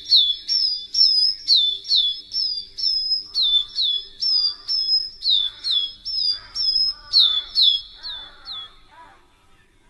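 A bird calling over and over, about two short high chirps a second, each sliding quickly down in pitch; the series stops about nine seconds in. Softer, lower chattering from another bird joins in the second half.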